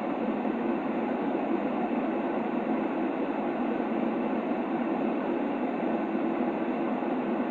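Steady, unchanging white-noise sleep sound, muffled, with most of its hiss in the low and middle range and little bass or treble.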